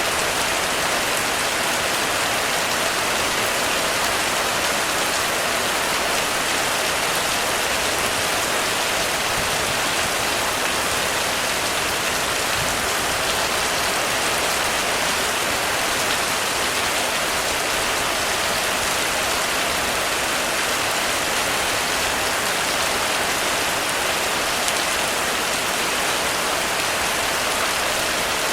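Heavy rain falling steadily on a roof, an even hiss with no thunder.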